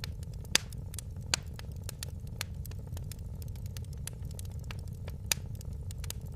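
Wood fire crackling: irregular sharp pops and snaps over a steady low rumble of the burning fire, with louder pops about half a second in, just after a second, and about five seconds in.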